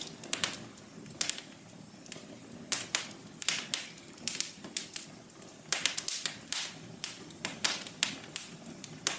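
Wood fire in a fireplace crackling: irregular sharp pops and snaps, some in quick clusters, over a soft steady low rush.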